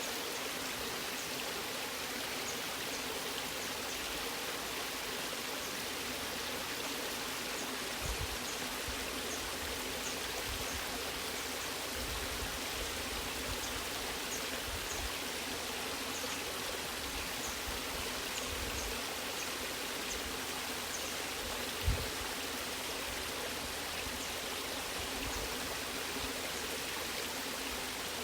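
Waterfall: steady rushing water, with two brief low thumps, the louder one about three quarters of the way through.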